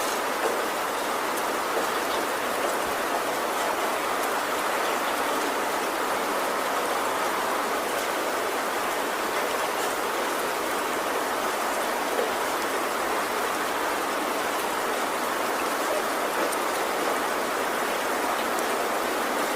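Heavy rain falling steadily on a tin roof, a dense even hiss with fine drop ticks and no let-up.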